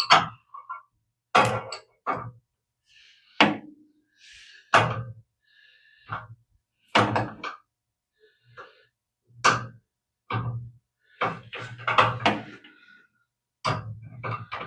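Metal line wrench clanking and knocking against the brass fittings on a gas water heater's control valve, about a dozen irregular knocks, some with a brief metallic ring, as the pilot line fitting is worked loose.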